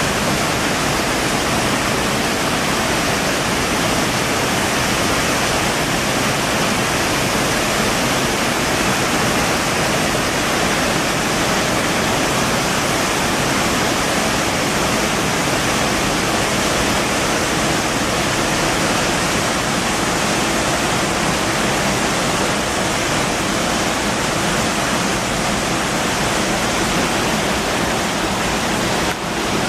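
A waterfall with a steady, full rush of falling water, with a brief dip near the end.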